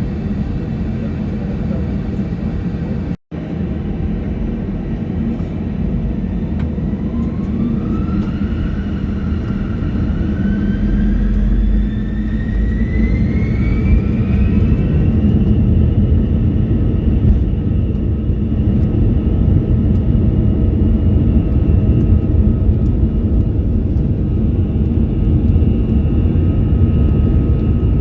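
Airbus A321-200 jet engines heard from inside the cabin: a whine climbs in pitch over several seconds, then holds steady as the engine rumble grows louder, as thrust is brought up for the takeoff roll. The sound cuts out for an instant about three seconds in.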